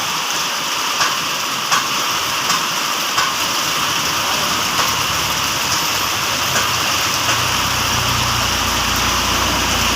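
Rain falling steadily, an even hiss with scattered sharper drop ticks. A low steady hum joins about seven seconds in.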